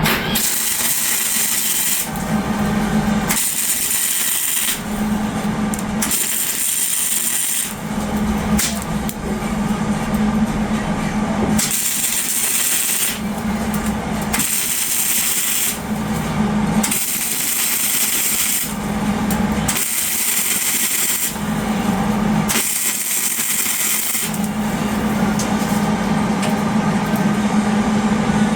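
Power tools working steel exhaust pipe, in short clips that switch every second or two between a low steady hum and a sharp high hiss.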